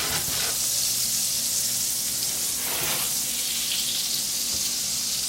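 Olive oil and butter sizzling steadily in a frying pan on the stove, with a short fuller rush about three seconds in.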